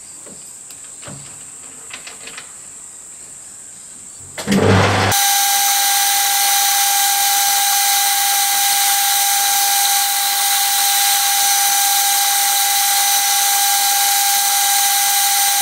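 A few faint clicks, then about five seconds in a metal lathe starts abruptly. It runs steadily with a strong high whine, spinning a cast iron flywheel casting while the hub is faced off.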